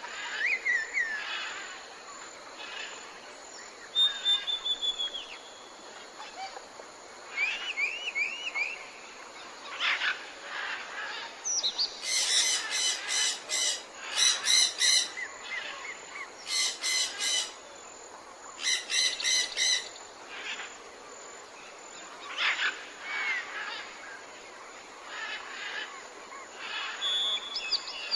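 Several wild birds calling and singing: assorted chirps and short whistles, with four loud bouts of rapidly repeated notes in the middle.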